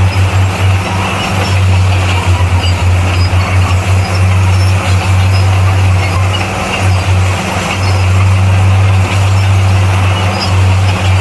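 Bulldozer's diesel engine running under load with a steady low drone that dips briefly now and then, mixed with a broad mechanical rumble.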